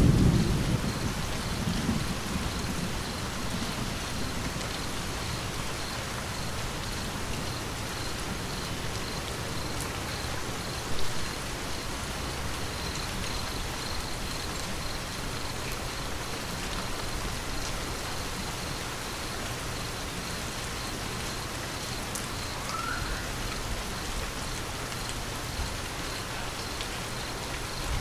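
Steady rain falling and pattering on surfaces, with the tail of a low thunder rumble dying away in the first couple of seconds. A single brief louder tap about eleven seconds in.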